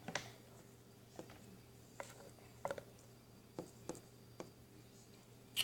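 Slime being handled by hand: a scatter of faint, irregular little clicks and pops, about eight or nine over a few seconds.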